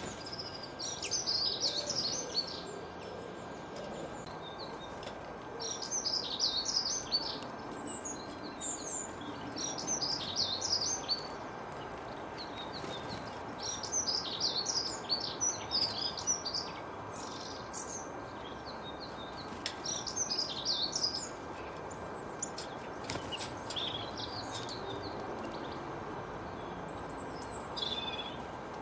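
Birds singing in repeated bursts of quick, high chirps, with pauses of a few seconds between phrases, over a steady background hiss and a faint steady hum.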